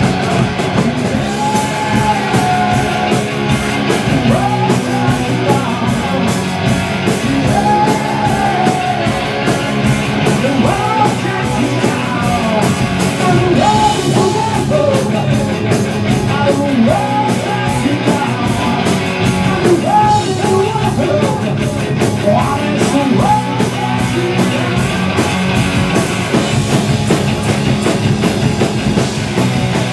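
Live rock band playing loud, with a male voice singing over driving drums and distorted electric guitar, heard through powerful Mesa Boogie speaker cabinets a few metres away in a small room, picked up on a camcorder's built-in microphone.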